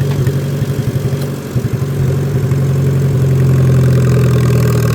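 Tractor engine running while mowing grass, a steady low hum that sounds rough and uneven at first, then settles into a smooth, slightly louder drone about two seconds in.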